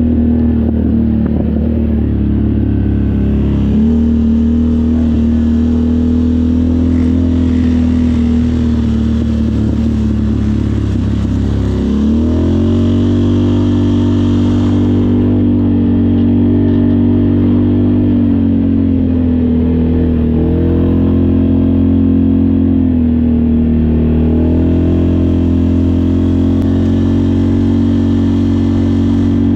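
ATV engine running while riding, holding a steady pitch, then revving up about twelve seconds in and easing off and picking up again twice.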